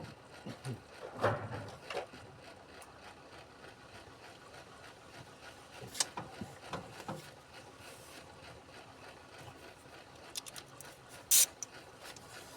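Scattered clicks, scrapes and light knocks of a hand tool working at the stuck screws of a truck's gas pedal module, the sharpest click near the end.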